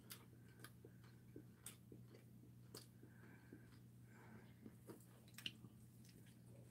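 Faint eating sounds: someone chewing yangnyeom fried chicken, with scattered light clicks of chopsticks on a plate, over a low steady hum.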